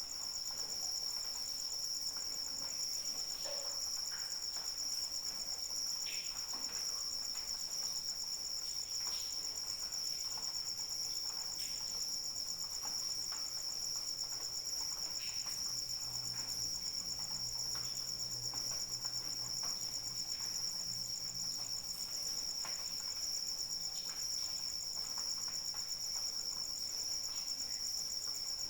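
A chorus of crickets trilling steadily in a continuous, high-pitched pulsing drone, with faint scattered drips of light rain beneath it.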